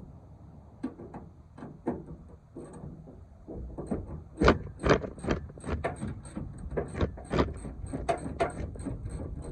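Ratchet with a 10 mm socket clicking as a tail-light screw is backed out, in a run of sharp clicks that gets quicker and louder about halfway through, over wind rumbling on the microphone.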